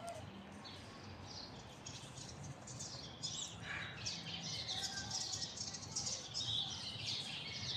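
Small birds chirping, many quick high calls overlapping, busier in the second half.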